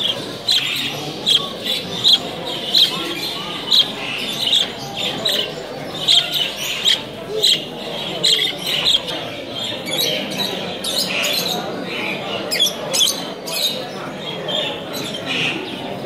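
Caged birds chirping, with short sharp calls repeating a little faster than once a second over a background murmur of people talking.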